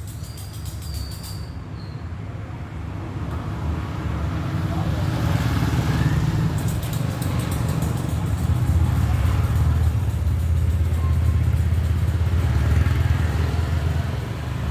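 A road vehicle passing with a heavy low engine rumble that swells from about three seconds in and stays loud through most of the rest, easing slightly near the end.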